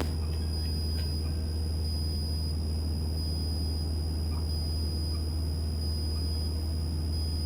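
Cessna 172's four-cylinder piston engine droning steadily in the climb, a low even hum with a faint steady high-pitched whine over it.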